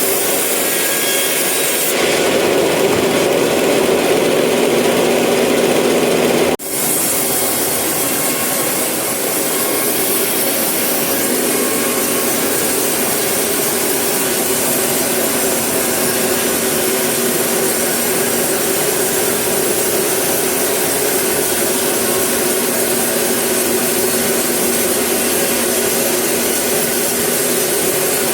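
Sawmill saw cutting through eucalyptus wood: a loud, steady sawing noise. It drops out for an instant and changes in tone about six and a half seconds in.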